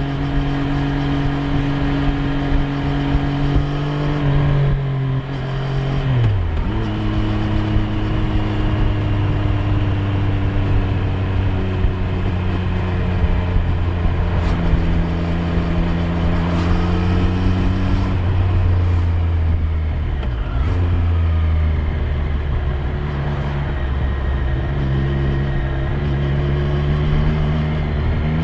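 Triumph Street Triple 765 R's inline three-cylinder engine running under way, heard onboard. The engine note holds steady, drops sharply about six seconds in, sags again around twenty seconds, and rises near the end as the bike picks up speed.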